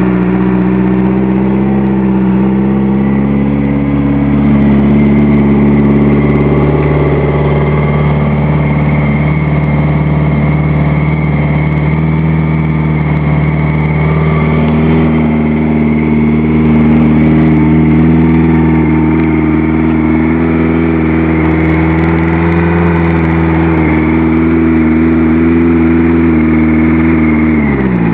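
1984 Kawasaki GPZ750 Turbo's air-cooled inline-four running at fast idle on the choke during a cold start, a steady note that wavers slightly. Near the end the engine speed drops sharply. The bike is stubborn to idle while cold.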